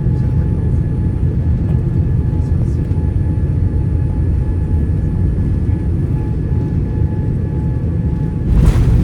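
Steady low rumble of a Boeing 787-9 jet airliner, with a faint steady hum-tone above it. A short, louder rush breaks in near the end.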